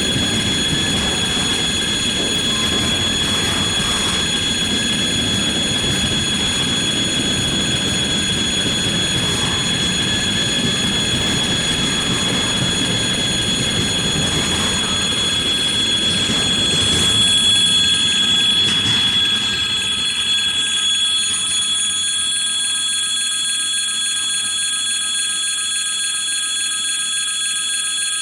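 Freight train rolling past behind a VL80S electric locomotive: a steady rumble of wagon wheels on rail that fades away about twenty seconds in.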